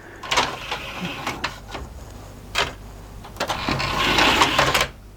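Small motorised mechanism in an LG VCR/DVD combo unit whirring, with a few sharp clicks and a longer stretch of mechanical running about three and a half seconds in.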